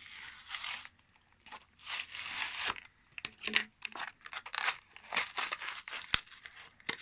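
Packaging being torn and crinkled open by hand to free a small toy figure: several bursts of rustling and tearing, broken by sharp snaps, with one sharp click standing out near the end.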